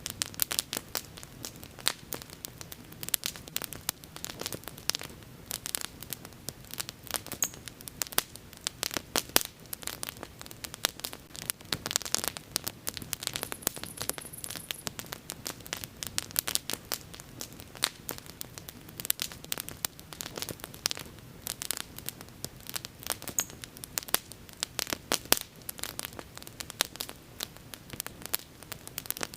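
Wood bonfire crackling, with frequent irregular sharp snaps and pops over a soft low rush of burning.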